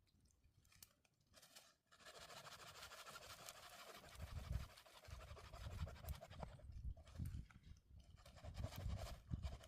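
Saw rasping through wood, a steady scratchy friction noise that starts about two seconds in and fades after about four to five seconds, sped up to double speed. Low thumps are heard over the second half.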